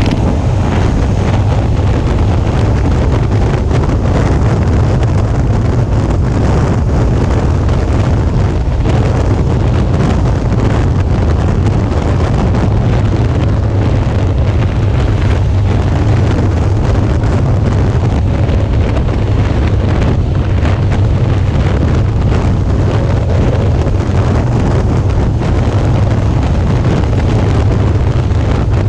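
Steady wind buffeting on a motorcycle-mounted action camera's microphone while riding a Suzuki V-Strom 650 at road speed, a deep unbroken rumble with the bike's 645 cc V-twin engine running underneath.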